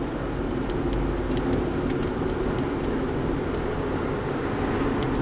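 Steady road and engine noise heard from inside a moving car, a low, even rumble with a few faint light ticks.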